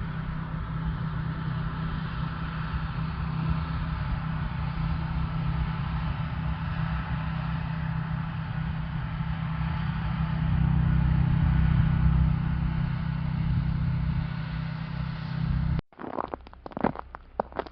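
A motor vehicle's engine running steadily, a little louder for a few seconds past the middle. Near the end it cuts off abruptly and is followed by irregular crunching clicks.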